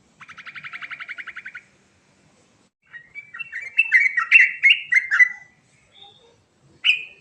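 Yellow-vented bulbul (trucukan) singing: a fast rapid-fire trill lasting about a second and a half, then after a short gap a loud bubbly, warbling phrase of quick rising and falling notes, and one short note near the end.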